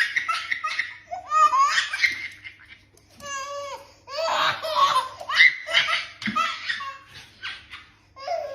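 Hearty laughter in several bursts with short breaks between them.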